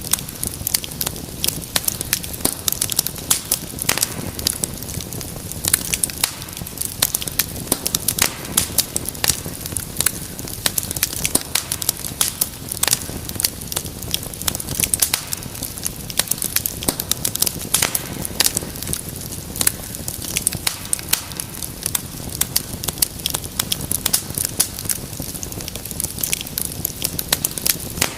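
Wood fire crackling: many sharp, irregular pops and snaps over a soft steady rush of burning.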